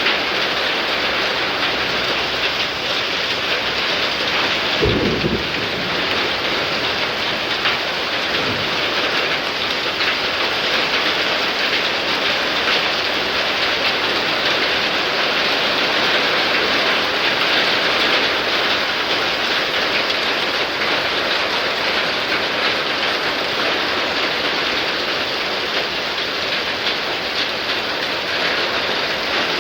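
Heavy thunderstorm downpour, rain pouring steadily. A sharp clap of thunder comes about five seconds in, and a fainter low rumble follows a few seconds later.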